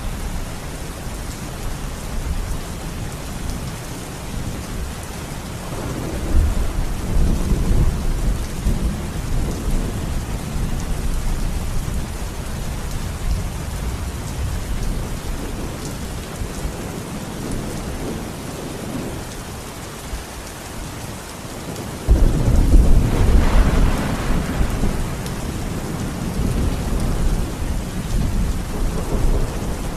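Steady rain falling with rolling thunder. A low rumble swells about six seconds in, and a sudden, louder, sharper thunderclap breaks about 22 seconds in and rumbles on to the end.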